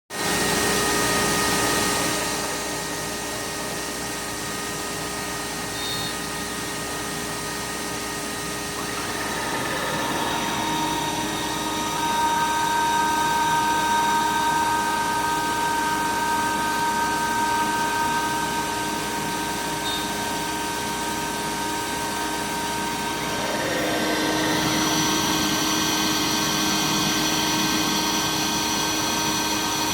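CNC router spindle running steadily as it machines aluminum composite panel, a whine made of several held tones whose pitch shifts a few times as the cut changes.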